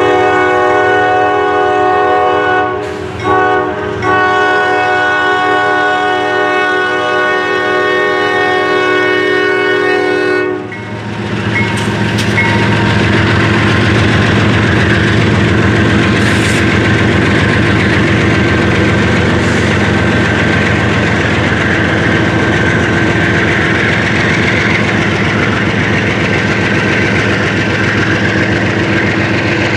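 Horn of a CSX GE ES40DC locomotive sounding one long chord with two brief breaks, stopping about 11 s in. Then the multi-locomotive freight runs across the grade crossing, diesel engines running under a steady rumble and rattle of wheels on rail.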